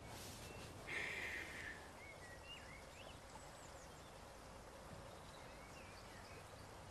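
Quiet rural outdoor ambience: a short hiss-like sound about a second in, then a few faint, high, short bird chirps.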